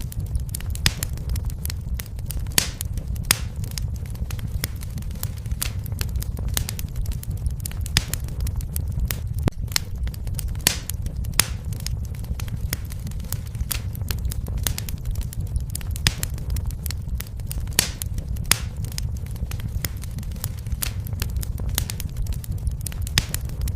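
Wood fire crackling: irregular sharp snaps and pops, some much louder than others, over a steady low rumble of flames.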